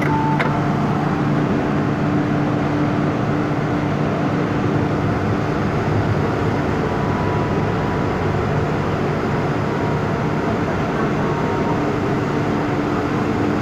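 Steady rumble and constant hum of an MTR M-Train, heard on board.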